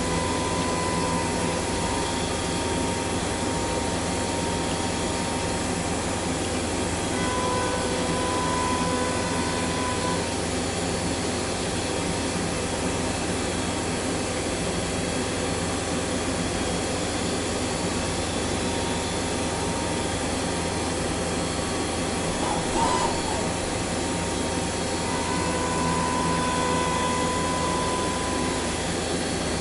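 Metalworking machine tool running steadily while machining round bar stock: a dense whirring noise with a faint whine that comes and goes.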